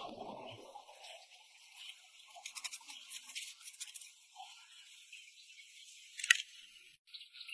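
Light scraping and brushing on a small hard object, with scattered ticks and one sharp click about six seconds in.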